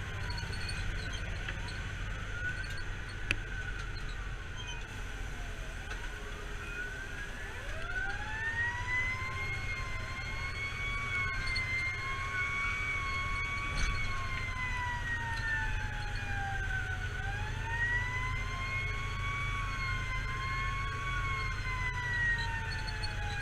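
Fire engine siren in a slow wail, each cycle gliding up for several seconds and falling away again, with fainter overlapping wails early on. The truck's engine and road noise make a steady low rumble underneath.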